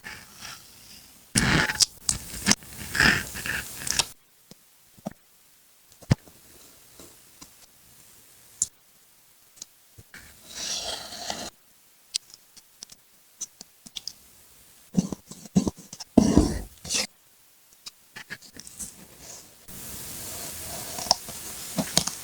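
Paper and craft materials being handled for a collage: irregular bursts of paper rustling and scraping with scattered sharp clicks and taps, and a steadier scraping hiss near the end.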